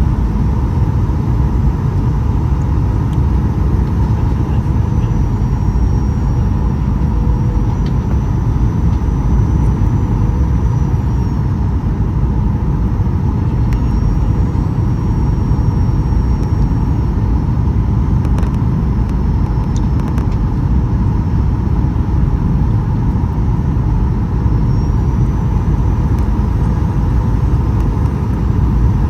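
Steady cabin noise inside a Boeing 737-800 in flight: a low rumble of airflow and its CFM56-7B turbofan engines running, with a steady hum and a faint high whine that comes and goes a few times.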